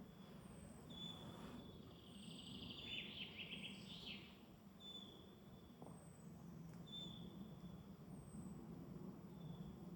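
Faint woodland birdsong: a bird repeats short, high, falling whistled notes every second or two, and a brief trilled song from another bird comes in about three seconds in. A low steady hum lies underneath.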